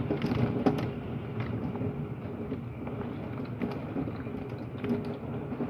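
Heavy thunderstorm rain pouring steadily, with scattered sharp ticks of drops striking nearby.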